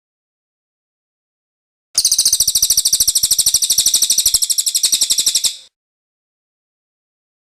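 Cililin bird's rolling 'ngerol' song: a fast, high-pitched trill of rapidly repeated notes lasting about three and a half seconds, beginning about two seconds in and fading out at the end.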